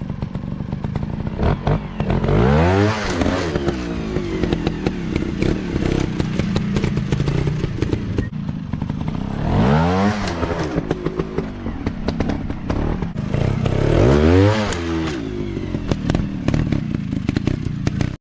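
Off-road motocross motorcycle engine running hard, its revs rising and falling three times, with a steady clatter of clicks and knocks over it.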